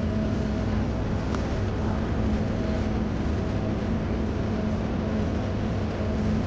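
Steady low rumble with a faint hum: the background noise of a busy indoor shopping centre at lunchtime.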